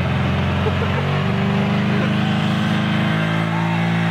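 A car engine running hard at steady high revs, its pitch stepping a little twice, while the car pours out thick smoke.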